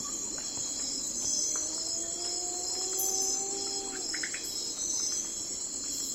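Night-forest ambience: a dense chorus of crickets and other insects chirping in steady, pulsing trills. Through it, a long, faintly rising whistled call runs from about a second in to about four seconds, followed by a few short chirps.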